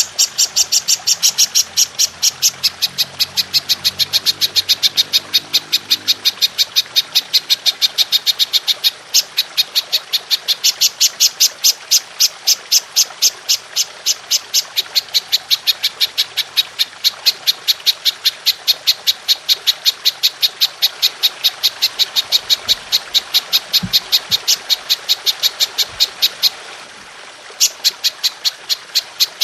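Belalang emas (golden grasshopper) insect call used as a songbird master track: a long run of sharp, high chirps, about five a second, breaking briefly about nine seconds in and again near the end, over a steady trickle of water.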